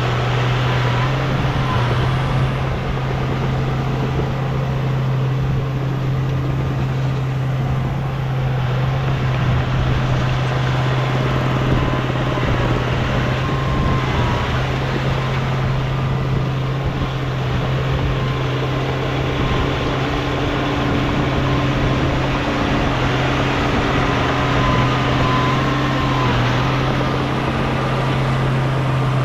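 Heavy diesel engine of earthmoving equipment running steadily under load, a constant low drone with no let-up.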